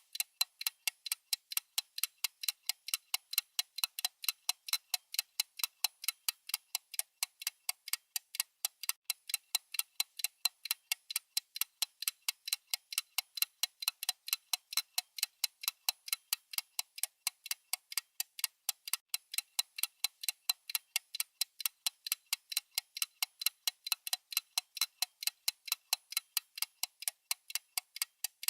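Clock ticking sound effect: crisp, even ticks, several a second, at a steady rate and level throughout.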